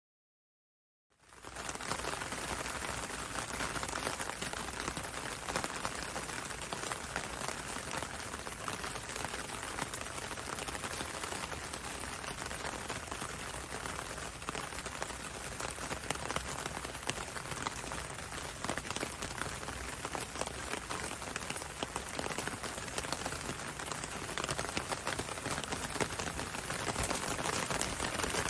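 Steady rain falling on a window and a road, with many small drops ticking through an even hiss. It fades in quickly about a second in.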